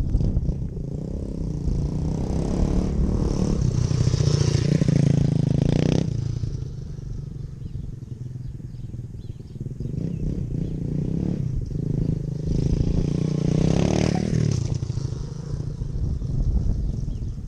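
Dirt bike engine revving hard under throttle, cut off abruptly about six seconds in, then building up again and falling away near the end.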